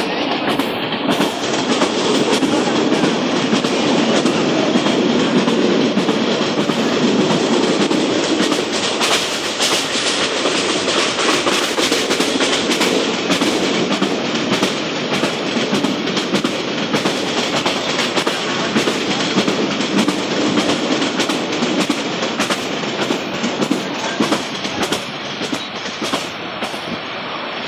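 Passenger train running along the track: a steady rumble with wheels clacking over rail joints.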